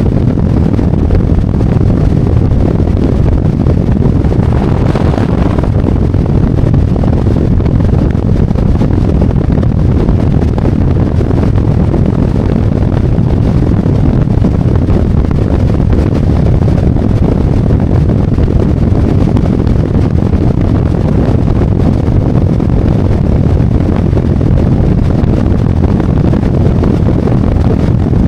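Harley-Davidson Road Glide's V-twin engine running steadily while riding, a dense low rumble mixed with wind and road noise, with a brief brighter swell about five seconds in.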